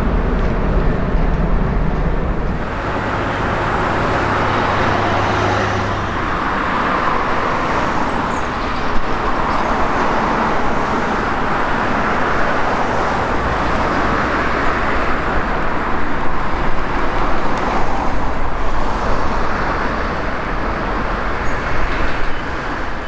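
Boeing 767-300ER's jet engines at takeoff thrust: a loud, steady rush that holds throughout, with a low hum underneath during the first few seconds.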